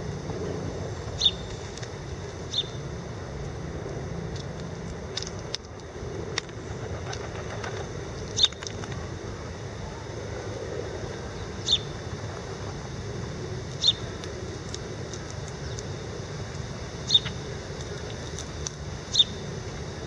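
Single short, high bird chirps, about seven of them a few seconds apart, over a steady low hum of distant city traffic.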